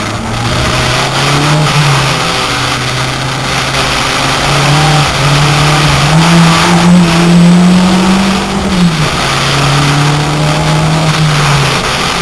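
VW Corrado's 1.8-litre turbocharged four-cylinder engine heard from inside the cabin, accelerating hard and changing up through the gears: the engine note climbs and drops back at each upshift, three times, and eases off near the end. Loud wind and road noise runs under the engine.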